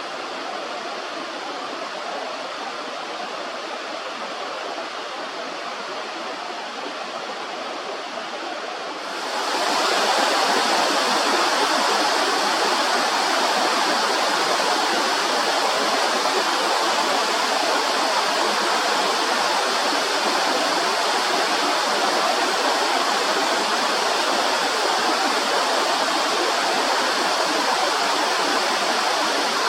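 Rushing stream water, a steady wash of noise. About nine seconds in it turns suddenly louder and brighter, then stays steady.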